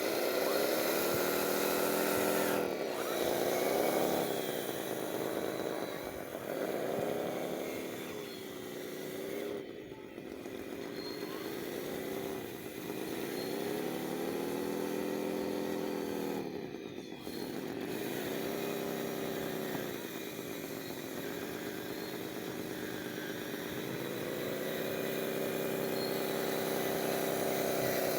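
Whine of a radio-controlled construction model's electric motor. Its pitch sags and recovers about every two to three seconds, then holds steady near the end.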